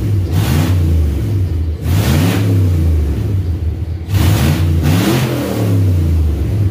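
Chevrolet 5.3 L V8 running and revved up in short blips several times, falling back to idle between them, with its catalytic converters removed.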